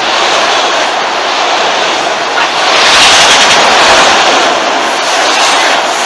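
CSX freight train of multilevel autorack cars rolling past at close range: a loud, steady rush of steel wheels on rail that swells a little about halfway through.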